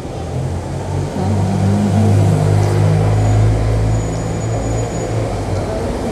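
Car engine running while the car is driven, a low hum that grows louder about a second in and eases off again after about four seconds.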